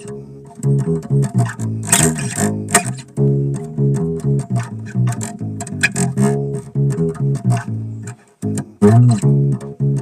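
Bass guitar played in a quick run of plucked notes with sharp attacks. There is a brief gap about eight seconds in, then a note that bends up and back down.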